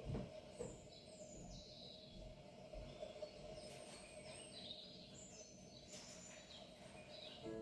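Faint birds chirping, a series of short high falling calls, over a low steady hum.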